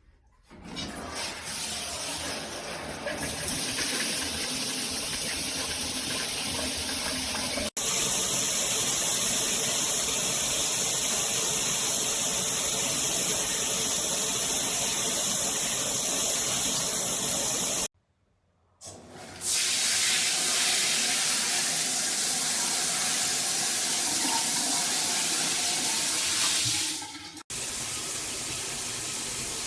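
Water spraying steadily from a filtered shower head, broken by a few abrupt cuts. Through the middle part a thin, high, steady whine runs above the hiss of the spray.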